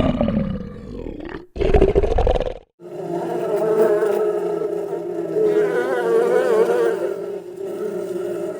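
A big animal's roar trails off, and a second short, low roar follows after a cut. Then comes a steady buzz with a slightly wavering pitch, like a flying insect such as a fly or bee.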